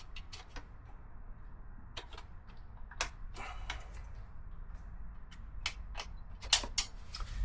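Irregular metallic clicks and taps of hand tools working a fastener on a motorcycle's battery brace, with a louder pair of clicks near the end.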